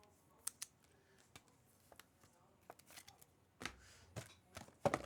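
Trading cards being flipped through and handled: scattered soft clicks and rustles, growing louder and busier near the end.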